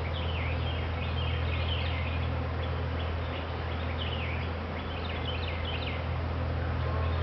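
A bird singing outdoors in a run of quick, repeated downward-sweeping chirps, over a steady low hum.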